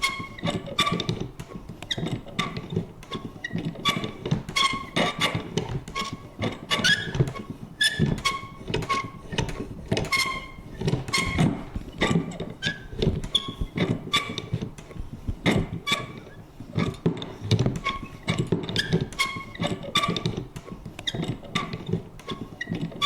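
Vintage paper punch worked over and over: an uneven run of sharp clicks and thunks, a few a second, with short high creaks and squeaks from its mechanism.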